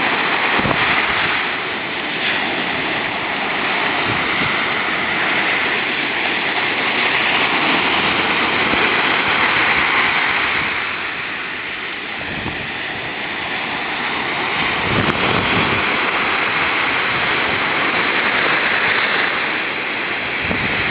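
Ocean surf washing against the shore, a steady rush of water that swells and eases, dropping off for a couple of seconds in the middle before building again.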